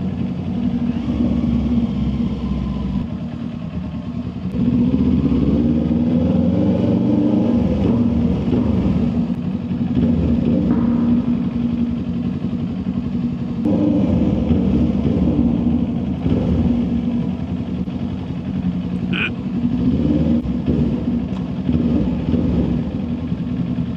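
Motorcycle engine running at low speed, echoing inside a parking garage. The throttle opens up about four to five seconds in, and the revs rise and fall after that.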